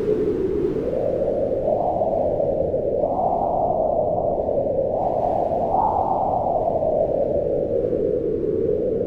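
Wind blowing steadily with a low, hollow moan whose pitch slowly rises and falls, swelling twice in the middle and dropping again near the end.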